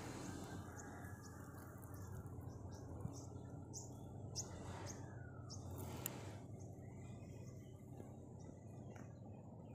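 Outdoor ambience: short, high chirps of small birds, coming thick from about a second in and thinning out after about six seconds, over a faint steady low hum.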